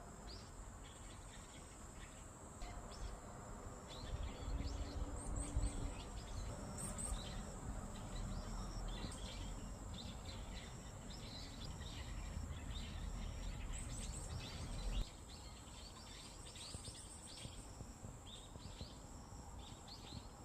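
Small birds chirping in quick, scattered calls over a steady high-pitched insect trill, as of a cricket. A low rumble runs under them for much of the middle and cuts off suddenly.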